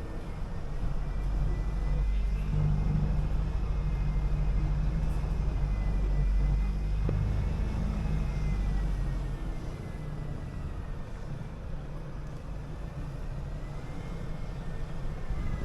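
City bus engine running under way with a deep rumble. It builds and holds loud for several seconds, then eases off about two-thirds of the way through, with a faint wavering high whine above it.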